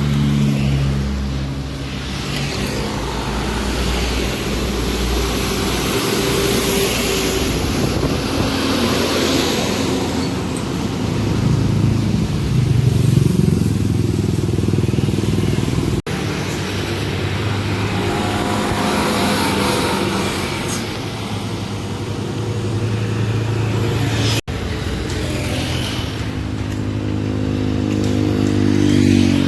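Heavily loaded trucks' diesel engines pulling hard up a steep grade, with other road traffic going by. The sound breaks off abruptly about halfway through and again later, and near the end an engine's pitch climbs.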